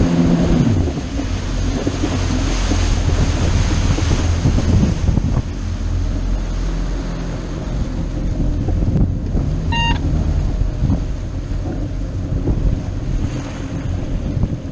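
Motorboat under way on open water: a steady low engine drone mixed with water rushing past and wind buffeting the microphone. A short beep sounds once, about ten seconds in.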